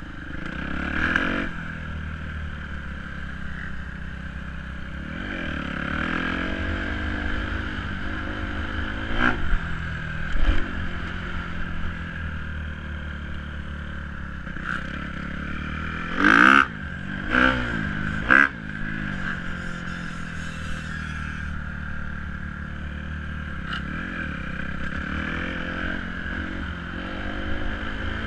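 Dirt bike engine running, its pitch rising and falling as it is revved, with a few short sharp revs in the middle.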